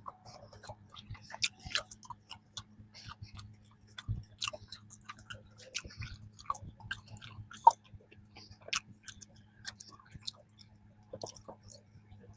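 Chewing of a flaky strawberry danish pastry: scattered soft crackles and mouth clicks, with a faint steady low hum underneath.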